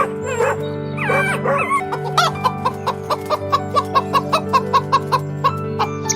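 A chicken clucking: a few calls near the start, then a quick run of short, evenly spaced clucks, about four a second, over steady background music.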